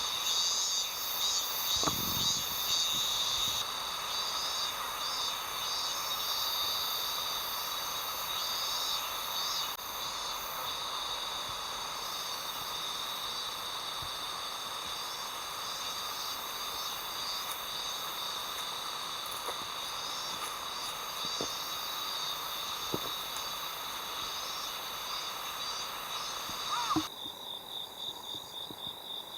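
Chorus of autumn crickets and other singing insects, several steady high-pitched trills layered together, with a few soft knocks. Near the end it changes abruptly to a single pulsing trill.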